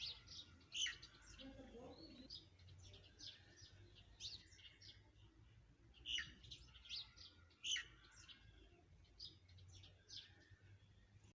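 Small birds chirping: short, sharp, high calls repeated irregularly, some in quick clusters.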